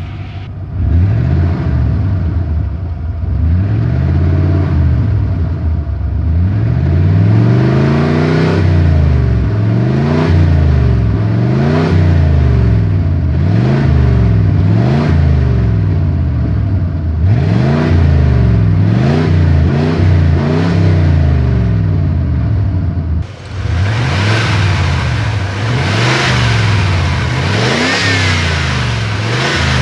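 Ford F-150's 5.0 (302) V8 engine being revved up and down again and again, each rev rising and falling over a second or two. The engine has an exhaust leak under the hood.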